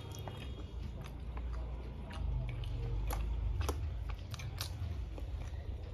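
Close-miked eating: chewing and biting food, with scattered crisp clicks and crunches. A low rumble comes in about two seconds in.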